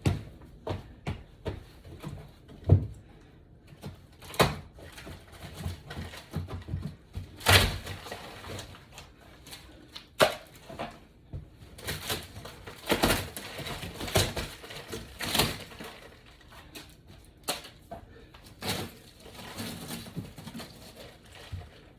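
Irregular knocks and thuds from work tearing up a damaged wooden floor: many separate hits scattered at uneven intervals, the sharpest about three seconds in and again a little past seven, with a busier run of hits around the middle.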